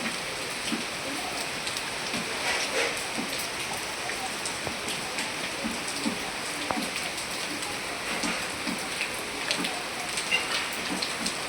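Steady heavy rain falling, with many separate drops heard striking nearby surfaces.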